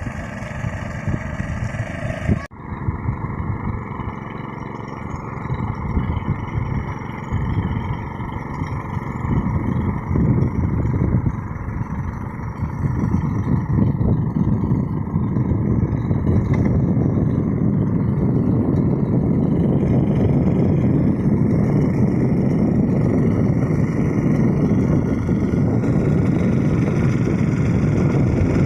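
Two-wheel hand tractor's engine running steadily as it levels a field. The sound changes abruptly about two and a half seconds in and grows a little louder from about halfway through.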